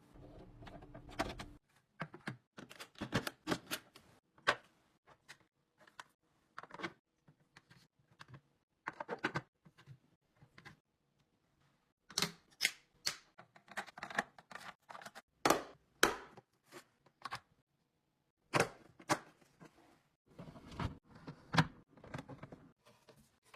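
Irregular clicks, clacks and knocks of items and plastic containers being handled and set down during a fridge restock, coming in quick runs with short pauses between them.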